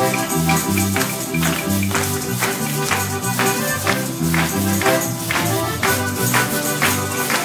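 A small live band plays Mexican popular music. A bass line steps from note to note under sustained chords, and a tambourine keeps a steady beat of about two strikes a second.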